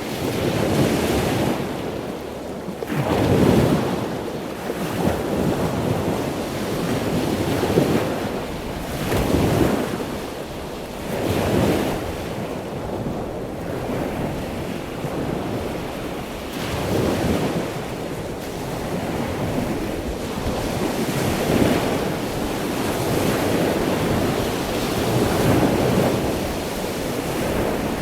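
Ocean surf washing ashore, with waves breaking and surging every two to three seconds over a steady rush of water. Wind buffets the microphone throughout.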